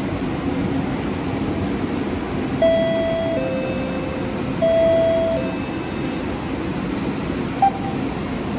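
A two-note electronic chime, the second note lower, sounding twice about two seconds apart over a steady rumbling background noise, with a short single beep near the end.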